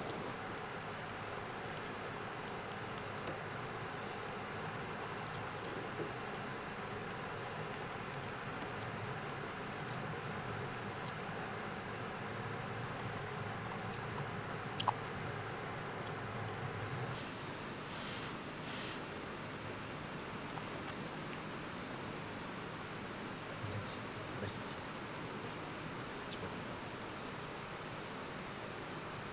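A steady, high-pitched chorus of summer insects trilling continuously, with one brief sharp click about halfway through.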